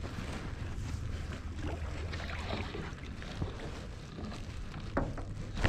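Canoe paddle strokes dipping and splashing in the river, with a low wind rumble on the microphone and a couple of sharp knocks near the end.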